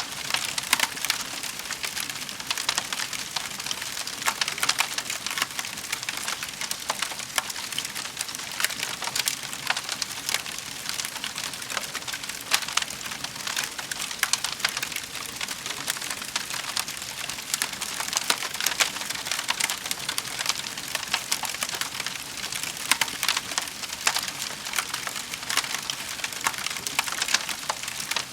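Wood fire crackling in a fireplace: a steady, dense patter of small snaps and pops, with a few louder cracks scattered throughout.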